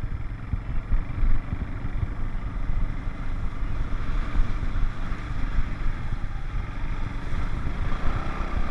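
Four-wheeler (ATV) engine running as it rides along, with wind buffeting the microphone.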